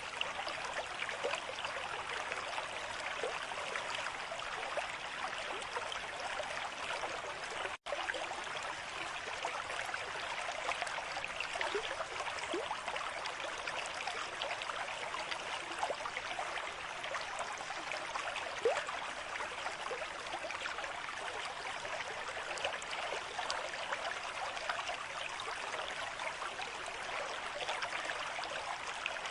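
Running water of a small stream, a steady trickle with many little gurgles. The sound cuts out for an instant about eight seconds in.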